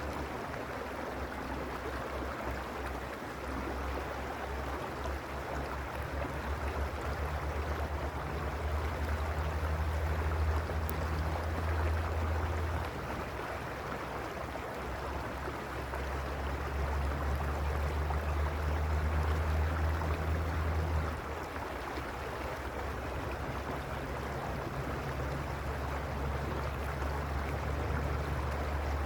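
Mountain stream (the Arroyo Uspallata) flowing, a steady rush of water over stones. A low rumble under it swells and eases, stronger for a few seconds about a third of the way in and again past the middle.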